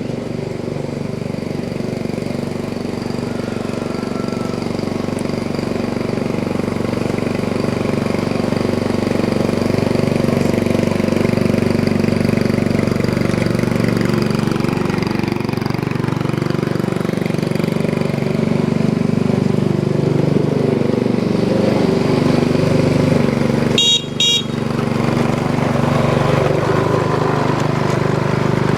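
Small single-cylinder Briggs and Stratton 3.5 HP engine of a homemade garden tractor running steadily while the tractor is driven, its pitch wavering a little with load. Near the end a short high beep cuts through briefly.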